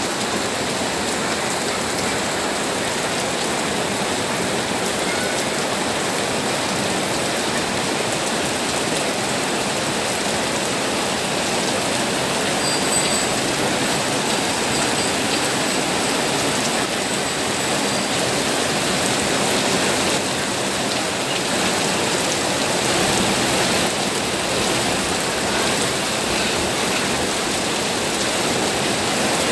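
Steady rain falling, an even hiss of drops landing on surfaces.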